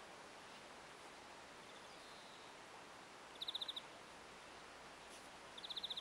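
Faint outdoor background hiss with two short, rapid high-pitched trills from a small bird, about three and a half seconds in and again near the end.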